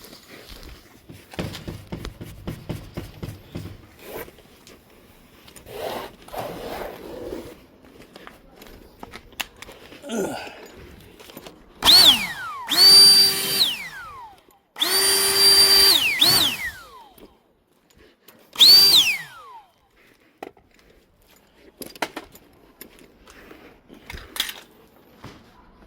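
Cordless drill-driver run in four or five short bursts, each a steady high whine that winds down in pitch as the trigger is let go. Light knocks and clatter of handling come between the bursts.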